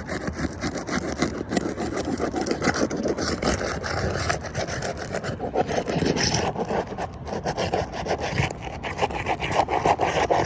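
Roof snake being worked back and forth under a roof shingle to free it: continuous rapid scraping and rasping.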